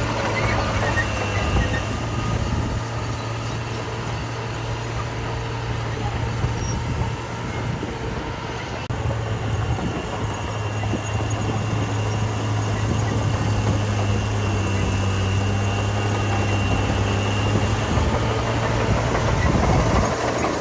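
Heavy diesel construction machinery running steadily, with a low engine hum that shifts slightly about nine seconds in.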